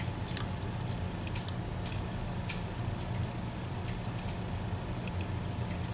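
Small, irregular clicks of a lock pick working the sliders inside an EVVA ICS lock cylinder, over a steady low hum.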